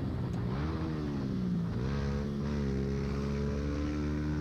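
Motorcycle engine under way: its pitch rises, drops sharply as a gear changes about a second and a half in, then holds steady, with wind rushing over the helmet-camera microphone.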